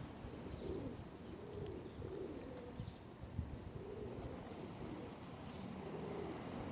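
Feral pigeons cooing, a run of low, repeated coos from several birds overlapping.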